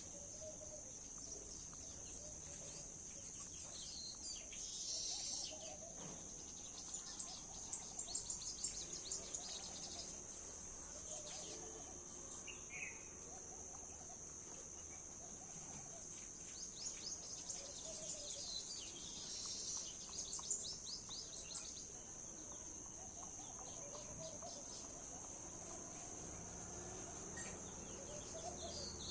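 A steady high-pitched insect drone, like cicadas or crickets, with small birds chirping in rapid runs over it, busiest in the middle and latter parts.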